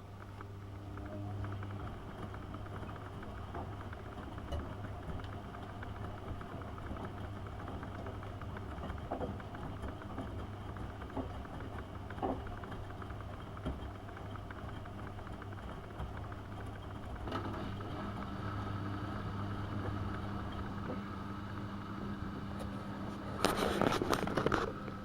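AEG Öko-Lavamat 72520 washing machine running mid-cycle on a boil wash with prewash: a steady low hum. A higher steady whine joins about two-thirds of the way in, and there is a brief louder noisy burst near the end.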